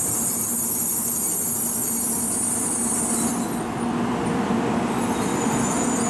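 N700 Series Shinkansen train moving slowly along the platform, with steady running noise and an electric hum. A high hiss cuts off a little past halfway, and the hum grows stronger near the end.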